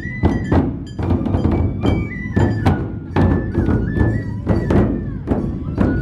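Dō drum-procession music: large taiko drums struck in a steady beat, about three strokes a second, with metallic clashes on the beats and bamboo flutes playing a high melody over them.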